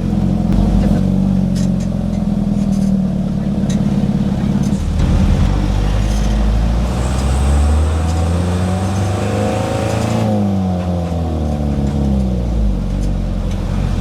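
Safari truck's engine running under load with wind and road noise. Its note shifts about five seconds in, and in the second half the revs sweep up and down several times as the truck is driven hard.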